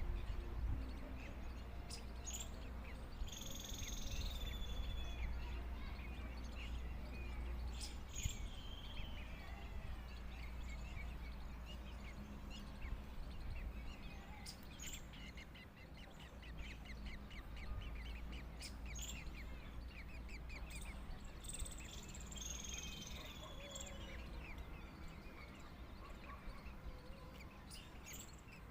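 Birds calling and chirping, with a rapid series of short chirps in the middle, over a low steady rumble.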